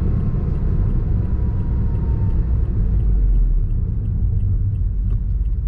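Honda S660's small turbocharged three-cylinder engine and road noise while driving: a steady low rumble, with a faint falling tone in the first couple of seconds and light, even ticking from about halfway in.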